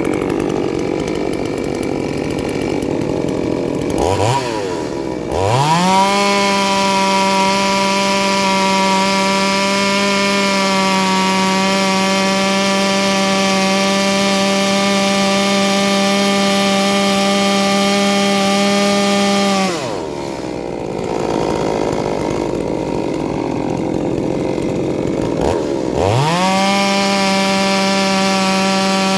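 Ported two-stroke chainsaw revved up to full throttle, holding a steady high pitch for about fourteen seconds, likely cutting wood. It then drops back to a rougher, lower running and revs up to full throttle again near the end.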